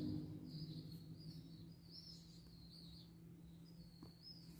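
Faint bird chirps, short and repeated, high-pitched, over a low steady room hum.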